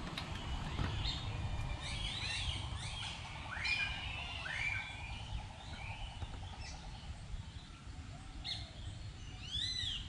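Several birds chirping and calling: short whistled notes that arch up and down, in clusters with a lull in the middle, over a steady low rumble.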